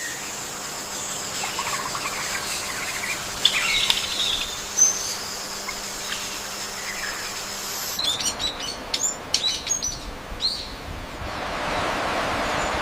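Several wild birds chirping and calling over a steady high background tone. About two thirds of the way in comes a quick run of sharp chirps, and near the end an even rushing noise swells up.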